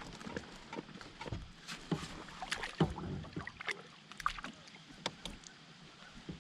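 Scattered light knocks and clicks at irregular times as things are moved about in a kayak.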